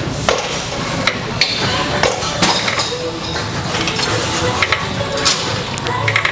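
Scattered metal clanks and clinks of gym equipment, several sharp knocks at uneven intervals.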